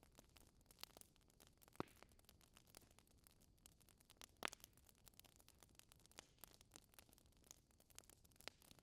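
Fire crackling faintly, with many small irregular crackles and ticks and two louder pops, about two seconds in and about four and a half seconds in.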